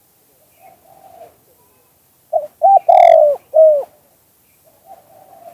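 Spotted dove cooing: one loud phrase of four coos about two seconds in, the third note the longest and falling at its end. Fainter cooing comes about a second in and again near the end.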